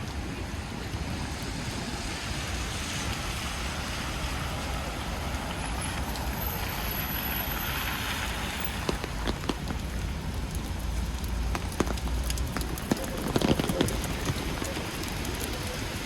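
Steady rain on a city street over the low rumble of traffic, with scattered sharp drop ticks in the second half. A brief louder swell of noise comes about 13 seconds in.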